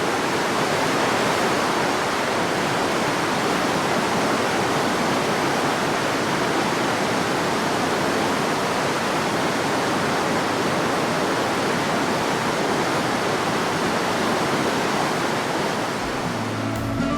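Steady, even rushing noise with no rhythm or pitch, of the kind made by falling or running water.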